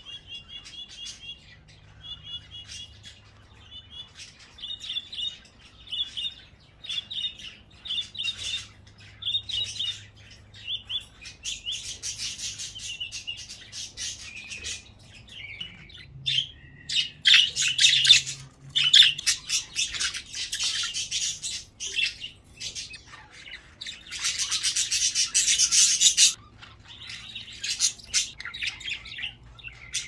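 Birds chirping. A short high chirp phrase repeats about once a second at first, then budgerigars chatter and squawk, loudest in dense bursts past the middle.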